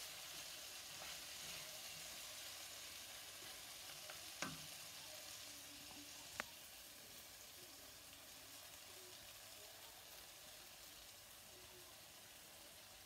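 Chicken and vegetables frying in a pan with a faint, steady sizzle as they are stirred with a spoon. Two sharp clicks of the spoon knocking the pan, about four and six seconds in.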